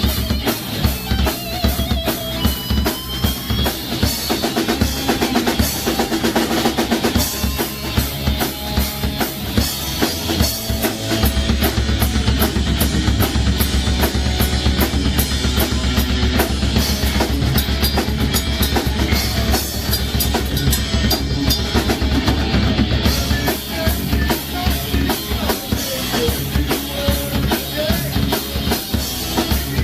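Heavy rock band playing live, the drum kit to the fore with a driving bass drum and snare under electric guitar and bass.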